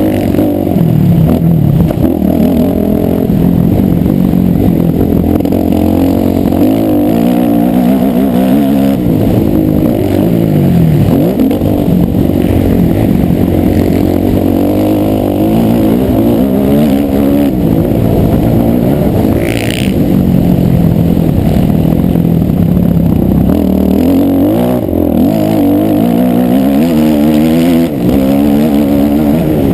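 Motocross bike engine revving, its pitch rising and falling again and again. A brief high-pitched sound cuts through about two-thirds of the way in.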